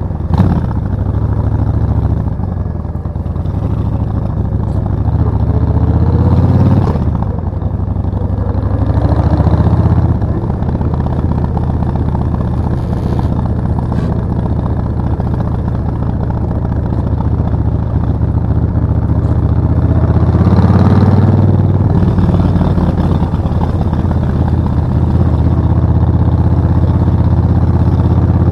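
Suzuki VS1400 Intruder's V-twin engine running under way, its pitch rising and dropping back a few times as it picks up speed and eases off.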